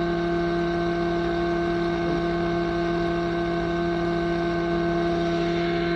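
O.S. 91 glow engine and rotors of a radio-controlled Neo-Caliber 90 helicopter running steadily in a hover, flown in 'gas mode' rather than on the governor. A loud, even hum at a constant pitch.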